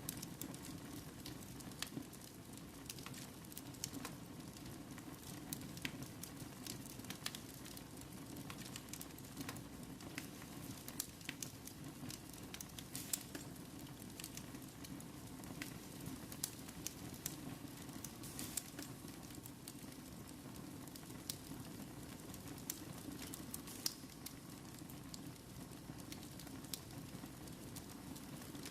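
Fire burning in a fireplace: a steady low rustle with frequent short, sharp crackles and pops at irregular intervals.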